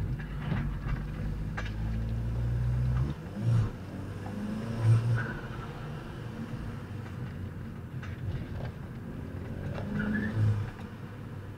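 Car engine running with a steady low drone that stops abruptly about three seconds in. Three short, louder sounds follow, the first a few tenths of a second later, the next about a second and a half after that, and the last near the end.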